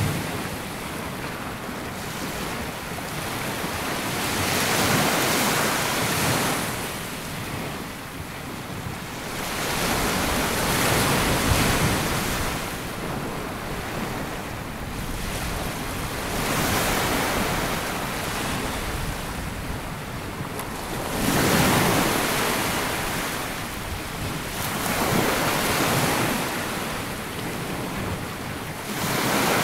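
Small waves breaking and washing up a sandy beach, the surf swelling and falling back every four to six seconds, with some wind on the microphone.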